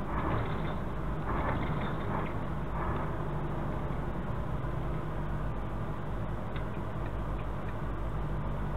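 Steady low engine and road noise of a vehicle driving, heard from inside the cabin.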